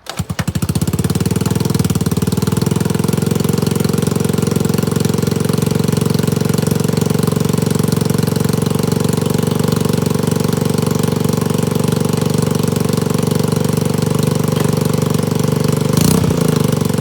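Peace Sports 50cc scooter's two-stroke engine catching right at the start on a cold start, with no battery charge after months of sitting, then settling into a steady idle. The sound briefly changes and gets a little louder about sixteen seconds in.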